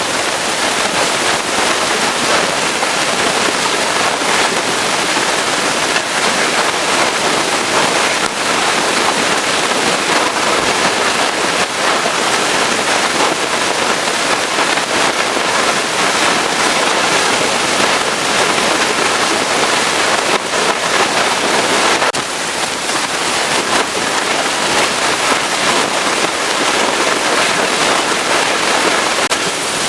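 Pressure washer jet spraying water onto a truck's body, a steady loud hiss of spray with small dips as the jet moves.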